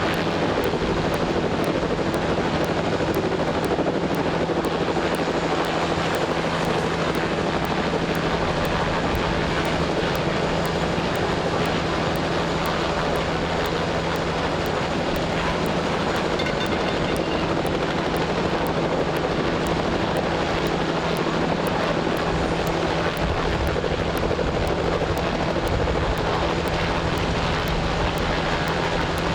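Steady engine drone with a constant low hum under a wash of noise, unchanging throughout.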